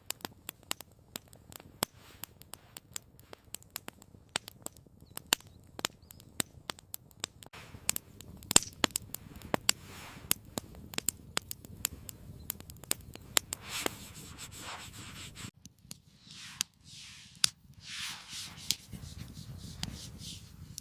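Wood campfire crackling, with many sharp, irregular pops and snaps. A few soft rushing swells come in during the last few seconds.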